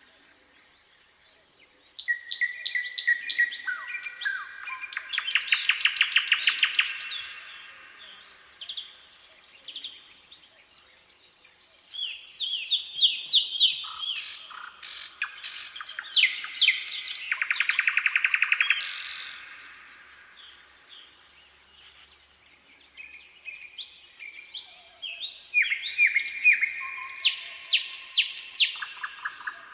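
Nightingale singing in three bursts of song, each a run of varied whistles and chirps that builds into a fast, rattling trill of repeated notes, with pauses of a few seconds between the bursts.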